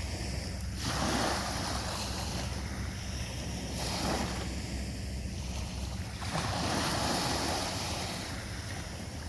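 Sea waves breaking and washing up the beach: three surges of surf, roughly three seconds apart, over a steady low rumble.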